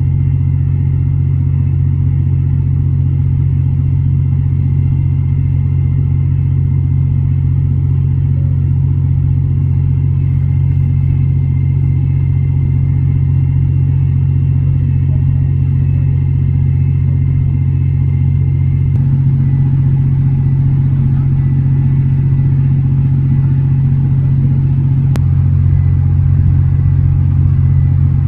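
A steady, low engine drone with a faint, even high whine above it; its pitch and tone shift slightly about two-thirds of the way through.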